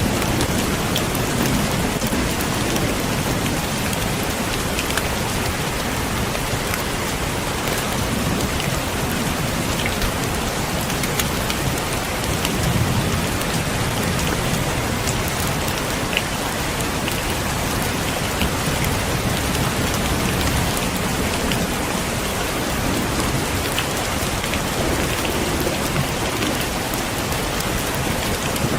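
Heavy rain falling steadily on a window, a dense even hiss with scattered sharp drop ticks. A low rumble swells briefly about halfway through.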